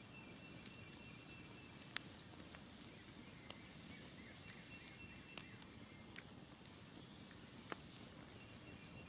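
Smoldering wood campfire crackling faintly, with sparse sharp pops every second or two, the loudest about two seconds in.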